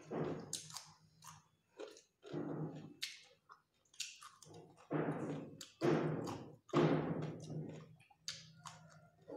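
Close-up chewing and crunching of raw cucumber slices: wet, crisp bites and chews coming irregularly, about one a second.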